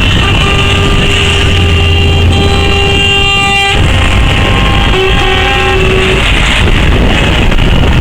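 Lorry horn sounding one long steady blast of about three seconds that cuts off sharply, then a shorter blast a second later, over the steady rumble of passing truck engines.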